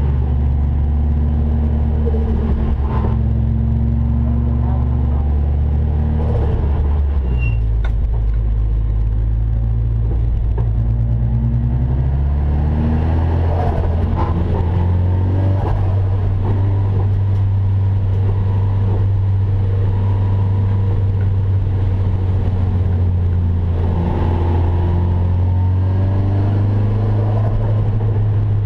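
Nissan 240SX race car's turbocharged SR20DET four-cylinder engine heard from inside the stripped cabin, running at moderate revs. Its pitch drops about seven seconds in and climbs back up around thirteen seconds in, then holds steady.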